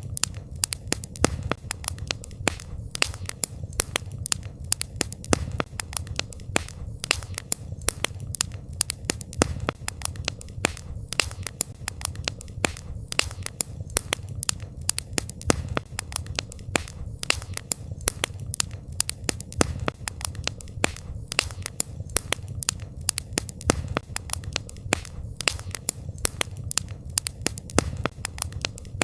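Campfire crackling: a dense, irregular stream of sharp pops and snaps over a low steady rumble.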